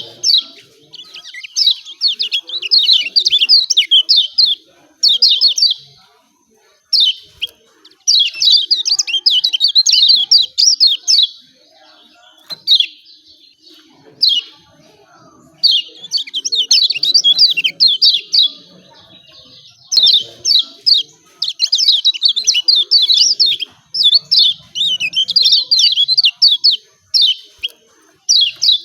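Kecial kuning, a white-eye, giving rapid, high-pitched 'ciak ciak' chirp series in bouts of one to three seconds with short pauses between, the call used as a competition tutoring recording.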